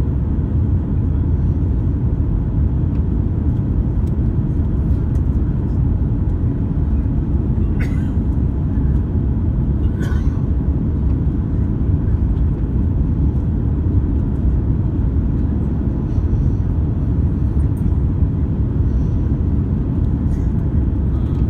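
Steady low rumble of airliner cabin noise inside an Airbus A350-900, with a couple of faint clicks about eight and ten seconds in.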